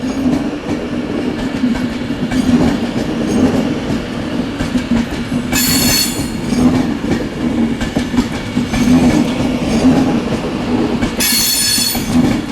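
An Avanti West Coast Class 390 Pendolino electric train pulls slowly into the platform with a steady low hum and rumble. It gives two high-pitched squeals, one about halfway through and one near the end.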